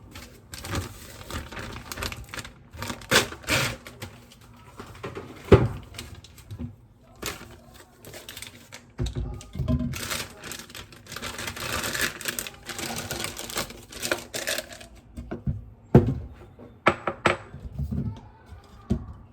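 Irregular clicks, knocks and clatter of objects being handled, with a longer stretch of scraping or rustling noise in the middle.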